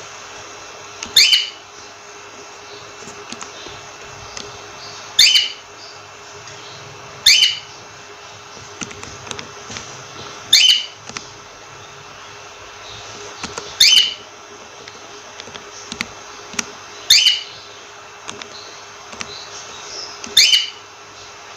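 Cockatiel calling: seven loud, short calls a few seconds apart, with softer chirps between them, over a steady hiss.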